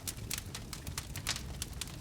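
Wood fire crackling: irregular sharp pops and snaps from the burning logs over a low, steady rumble of the flames.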